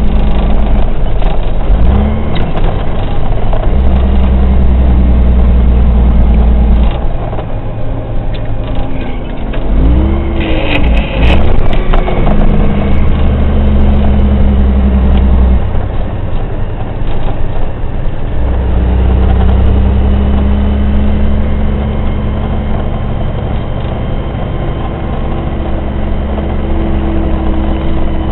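Kenworth water truck's diesel engine pulling through the gears: the engine note climbs, then drops at each shift, with two quick revs up and down in the middle.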